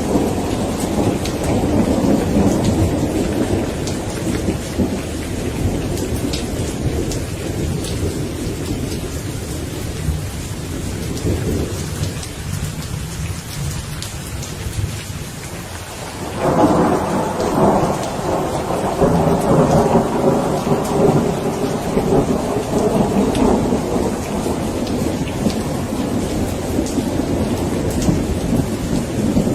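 Steady rain with rolling thunder. One long rumble fades away over the first half, then a new peal of thunder breaks in suddenly about halfway through and keeps rumbling.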